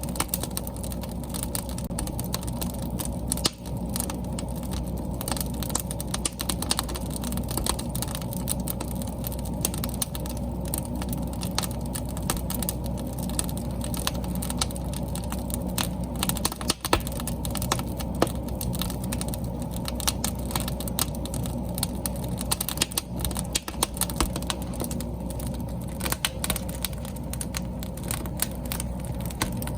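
Wood fire burning, with a steady low rush of flame and many sharp, irregular crackles and pops from the burning logs.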